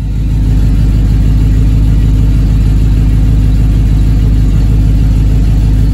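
1963 Pontiac Star Chief's V8 running at a steady idle, heard loud from inside the car.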